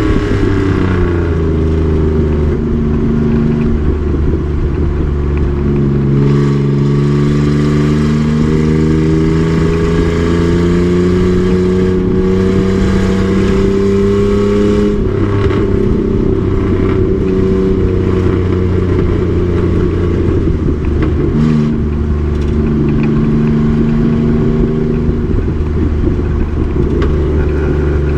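Race truck's engine running hard at track speed. The revs climb steadily for several seconds, drop suddenly about halfway through, then settle into a steady drone that changes pitch again about two-thirds of the way in.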